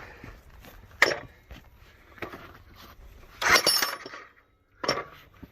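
Hard rock knocking and clinking as a geode is worked to split it: a sharp knock about a second in, a brief clattering burst around three and a half seconds, and another knock near five seconds.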